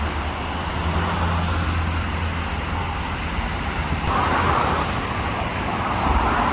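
A vehicle engine running with a steady low hum amid road traffic noise; a rushing noise swells about four seconds in.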